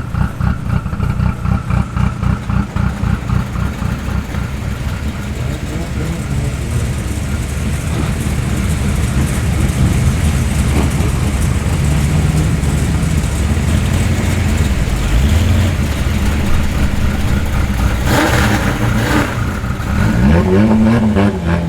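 Modified cars' engines and exhausts running as they roll in slowly, with a choppy pulsing exhaust note in the first few seconds, then a steadier drone. Near the end an engine revs up and back down.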